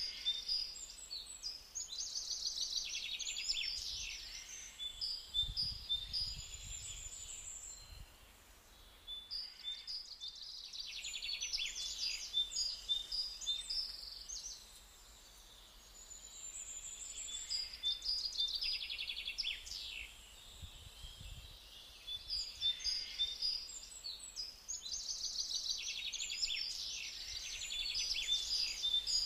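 Songbirds singing: bouts of quick chirps and trills, several phrases overlapping, with short lulls of a second or two between bouts.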